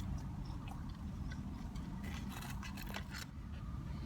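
Faint chewing and small mouth clicks from someone eating a burger, over a steady low hum.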